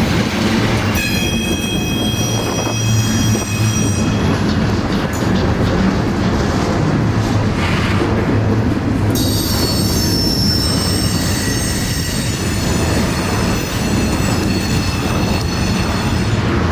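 A train moving on the rails with a steady heavy rumble, its wheels squealing against the rail in high ringing tones from about a second in until four seconds, and again from about nine seconds on.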